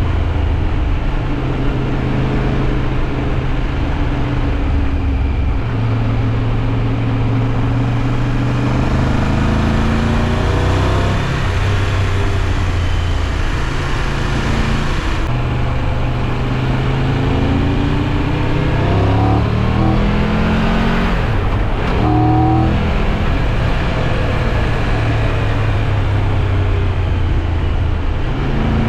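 Triumph Tiger 1200's three-cylinder engine running under way, its pitch climbing as it accelerates and dropping at gear changes or when the throttle is closed, several times over.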